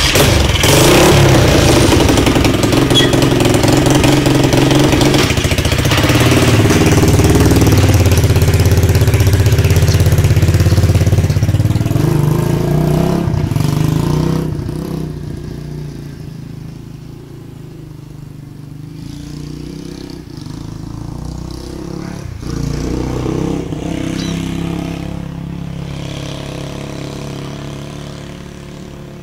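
Dirt bike engine running just after starting, its revs rising and falling. About halfway through it drops to a much lower level and stays there.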